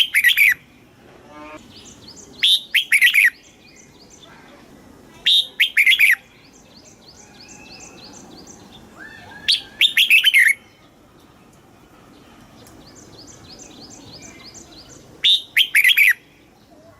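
Red-whiskered bulbul singing loud, short, clear phrases, five in all, each under a second and a few seconds apart. Fainter, quick repeated chirping carries on between the phrases.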